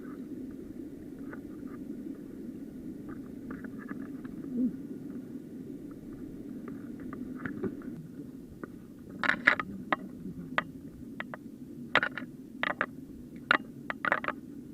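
Steady rushing of a small mountain stream. In the second half, a run of irregular sharp scrapes and clicks sounds close to the microphone.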